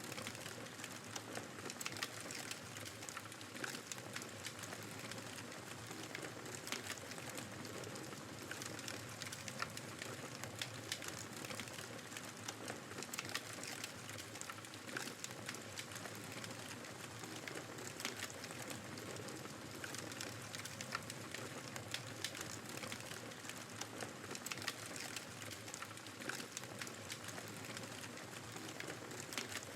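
Fireplace crackling with frequent, irregular pops and snaps over a steady rush of blizzard wind.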